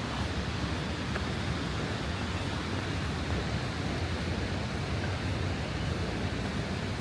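Steady outdoor background roar, heaviest in the low end, with no distinct events standing out.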